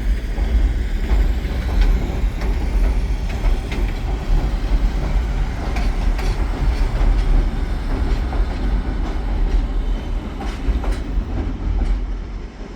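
A passenger train rolling along the track: a steady low rumble with the wheels clicking over the rail joints. The rumble eases a little near the end.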